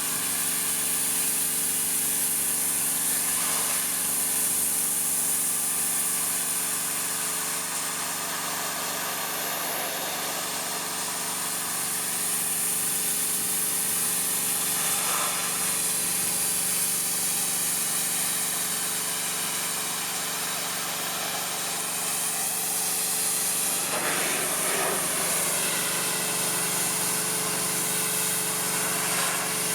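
Pressure washer engine running steadily under the hiss of the high-pressure water spray.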